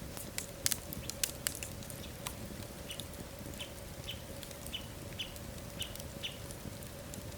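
Wood fire in a fireplace crackling, with several sharp pops in the first two seconds. Then comes a run of about eight short, high chirps, roughly one every half second, over a faint steady hum.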